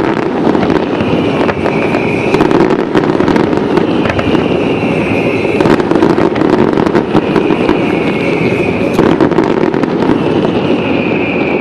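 Fireworks display: a continuous barrage of shell bursts and crackling, with many sharp bangs over a steady rumble.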